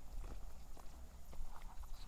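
Footsteps on a dirt trail: scattered light scuffs and clicks over a steady low rumble of wind and handling on the microphone.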